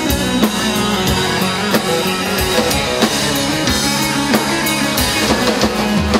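Live band playing the instrumental intro of a rock song: electric guitar and bass over a drum kit keeping a steady beat.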